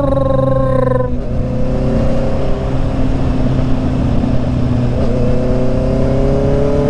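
Honda CB650's inline-four motorcycle engine, its pitch dropping off quickly in the first second after a rev, then running steadily and climbing gradually again in the last couple of seconds as the bike picks up speed, over a steady rush of wind noise.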